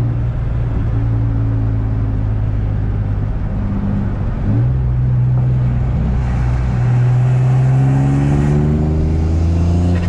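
Single-turbo G35's VQ35 V6 engine pulling the car along: a steady drone, then the revs jump about halfway through and climb steadily near the end as the car accelerates.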